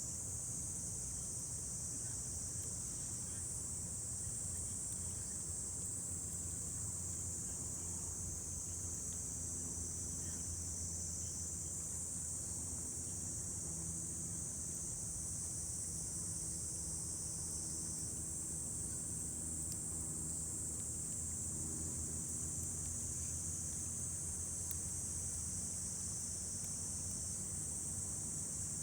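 Steady high-pitched chorus of summer insects, unbroken throughout, over a low steady hum.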